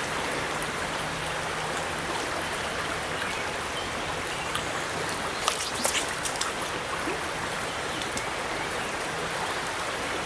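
River water running steadily through a shallow run, with a few short sharp splashes or clicks a little past halfway.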